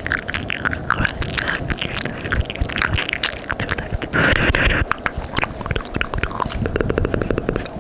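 Close-up ASMR mouth sounds: sticky, wet clicks and smacks of the tongue and lips. There is a short breathy burst about four seconds in and a quick run of clicks near the end.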